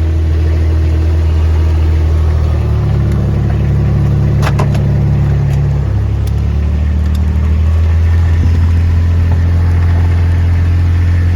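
Diesel engine of a farm vehicle running close by, its note rising for a few seconds as it speeds up, then settling back. A sharp click about four and a half seconds in.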